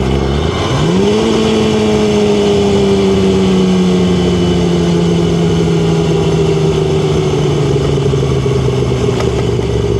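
Yamaha R6's inline-four engine under way: it revs up sharply about a second in, then its pitch sinks slowly and steadily as the bike eases off. A steady hiss of wind and road runs underneath.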